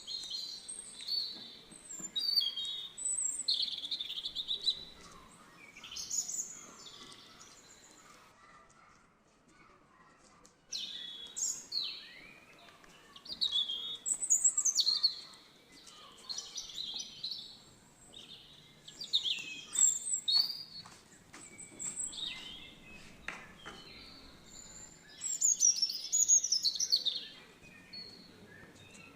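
Small birds chirping and singing: short high twittering phrases with quick sweeping notes, coming in clusters, with a lull of a couple of seconds about a third of the way in.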